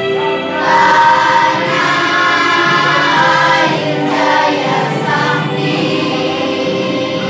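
Choir of young schoolgirls singing a slow song in Indonesian, with long held notes that change pitch every second or so.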